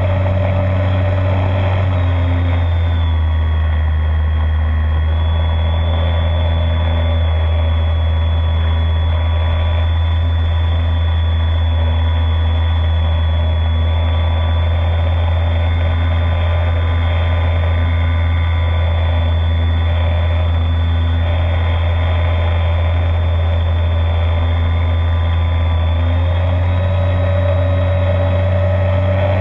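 Electric motor and propeller of a radio-controlled Beaver model plane, droning steadily as heard from inside the fuselage. The pitch drops a little about two to three seconds in and rises again near the end, as the throttle is eased back and then opened up.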